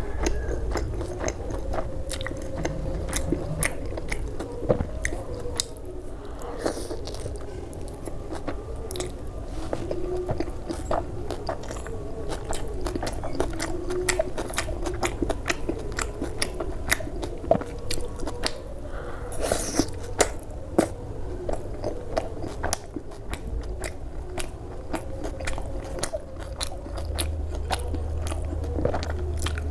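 Close-miked eating: a person biting, chewing and crunching food, with many sharp wet mouth clicks throughout.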